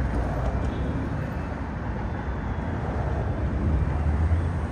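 Steady low outdoor rumble with no distinct events, growing a little louder near the end.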